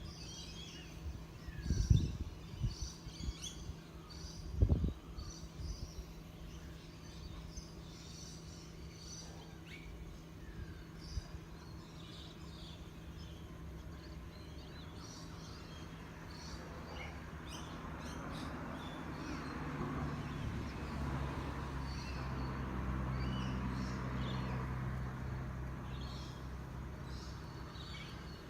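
Birds chirping, with two low thumps in the first five seconds. In the second half the low hum and rumble of an approaching train builds up and holds.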